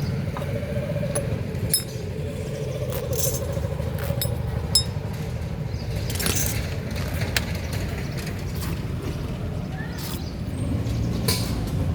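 Spanners and other metal hand tools clinking and clicking on a motorcycle engine as it is taken apart, over a steady low rumble of passing traffic.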